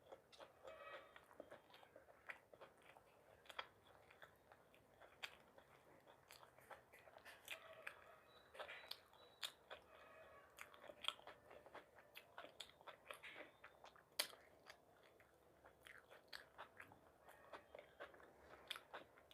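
A person chewing and biting food close to the microphone, with many short, sharp mouth clicks throughout.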